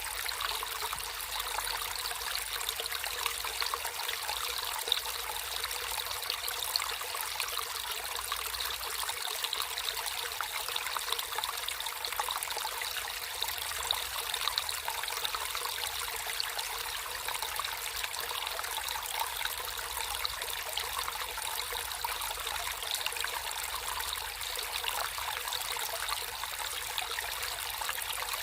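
Water trickling and babbling in a small natural stream, a steady splashy flow that runs on without change.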